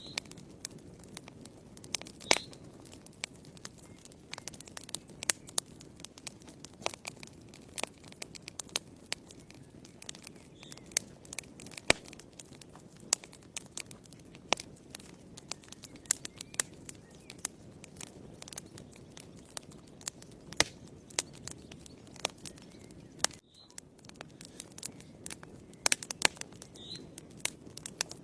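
Wood fire in a fireplace crackling, with irregular sharp pops and snaps over a steady low hiss. The sound drops out briefly about 23 seconds in.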